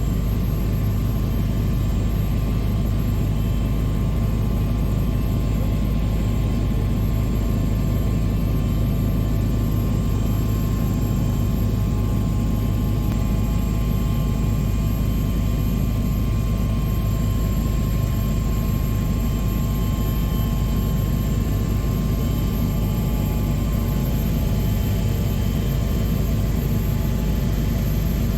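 Bell 429 twin-turbine helicopter in flight: a steady, unbroken drone of rotor and engine, with a thin high turbine whine over it.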